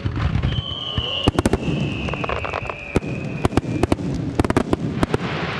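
Fireworks barrage: many shell bursts banging in quick, irregular succession. A long high whistle runs through it from about half a second in, slowly dropping in pitch and fading out around four seconds in.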